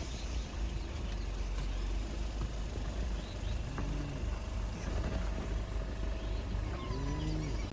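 Vehicle engine idling with a steady low rumble. Short calls that rise and fall in pitch come about four seconds in and again near the end.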